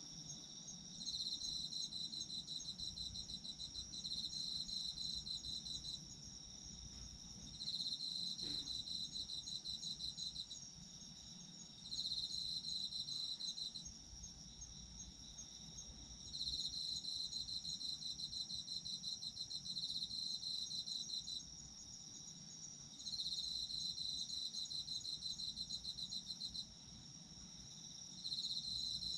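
Autumn crickets singing. One holds a continuous high trill, while another sings a rapid pulsing trill in bouts of a few seconds with short pauses between them.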